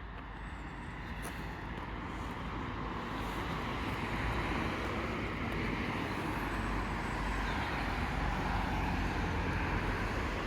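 Steady vehicle rumble and road noise, growing slowly louder as it approaches.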